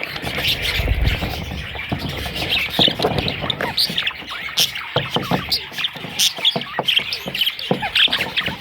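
Budgerigars chirping and squawking, many short calls overlapping in a continuous chatter.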